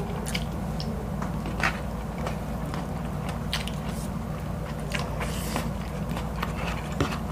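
Close-miked eating: people chewing a mouthful of rice and fish, with scattered sharp clicks of bites and lip smacks every second or so, over a steady low hum.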